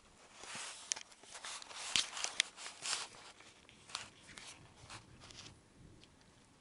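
Rain pattering close to the microphone: a hiss that swells and fades over the first few seconds, with irregular sharp ticks of drops hitting a nearby surface, thinning out near the end.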